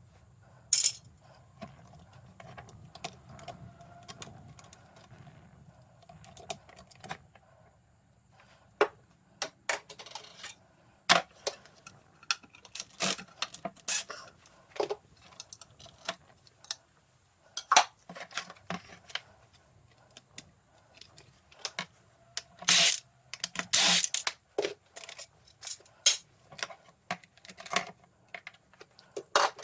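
Irregular clicks, taps and clinks of hard parts and hand tools being handled, with a cluster of louder knocks about three-quarters of the way through.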